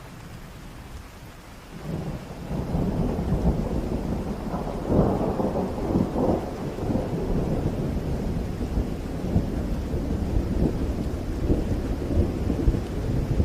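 Heavy rain falling, with a long low rumble of thunder that swells in about two seconds in and rolls on, loudest around the middle.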